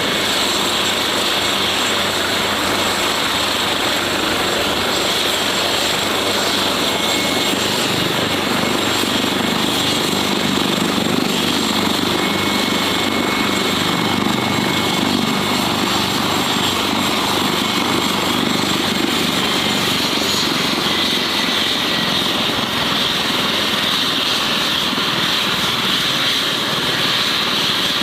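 Helicopter running steadily, with a high turbine whine over the rotor and engine noise; the whine drops slightly in pitch about two-thirds of the way through.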